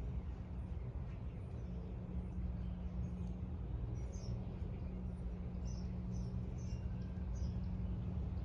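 A small bird chirping in short, high notes, repeating about once or twice a second from around the middle onward, over a steady low hum.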